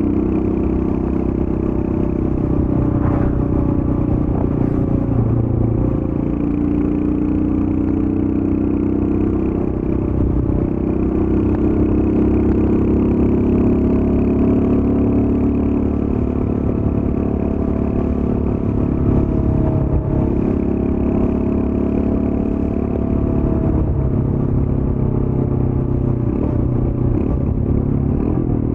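Royal Enfield Scram 411's air-cooled single-cylinder engine running through its stock exhaust while being ridden, its pitch rising and falling gently with the throttle.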